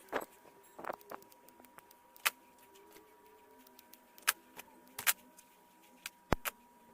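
Irregular sharp clicks and small taps of hand tools and wires being handled as broken wires are prepared for joining, about a dozen, the loudest a little after two seconds and between four and six and a half seconds in, over a faint steady high whine.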